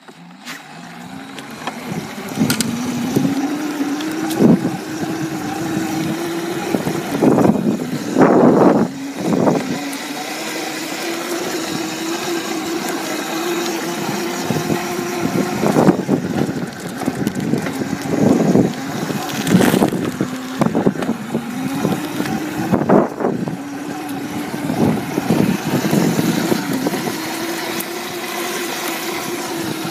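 Old dirt bike engine starting up about a second in and then running at a steady idle, with short loud bursts every few seconds.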